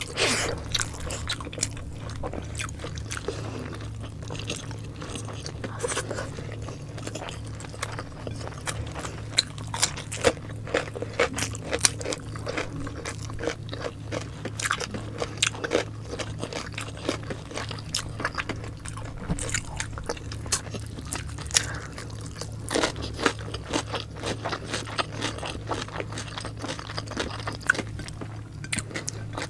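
Close-miked eating sounds: people chewing mouthfuls of braised pork belly and rice taken by hand, a steady run of short wet clicks and mouth noises, over a steady low hum.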